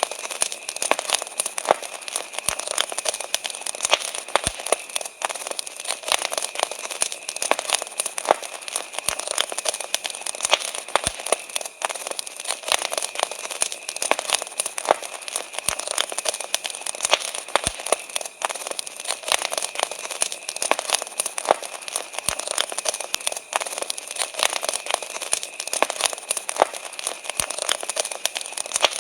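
Wood campfire crackling, with constant irregular snaps and pops, over a steady high drone of crickets.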